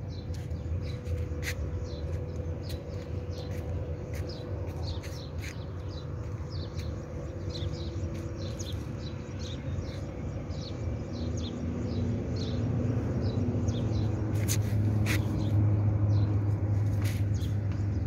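A small bird chirping over and over, short high notes at about two or three a second, over a low rumble that grows louder in the second half, with a few sharp clicks.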